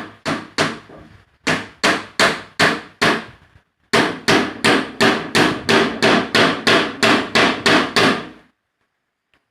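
Hammer striking plywood in a steady rhythm of about three blows a second, in a few runs with short breaks, stopping shortly before the end.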